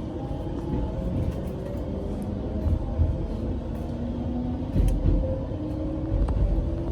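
A local train running after pulling out of a station, heard from aboard the train. There is a steady rumble with a motor tone that slowly rises as it gathers speed, and scattered knocks.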